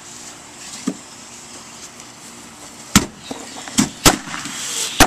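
Firecrackers exploding: four sharp bangs in the last two seconds, after a quieter stretch.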